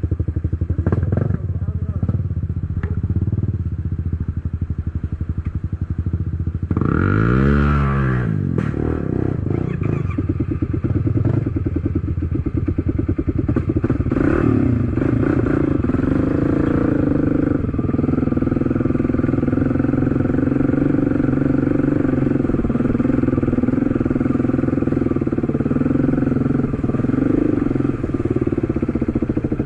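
Enduro motorcycle engine running under load while riding, revved sharply up and back down about seven seconds in, then pulling steadily. A few sharp knocks sound near the start.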